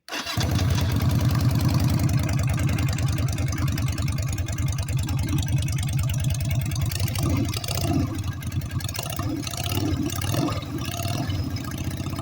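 Yamaha Virago 250's air-cooled V-twin engine running at a steady idle, a fast even pulse that starts suddenly and carries on throughout, with a few uneven blips in the second half.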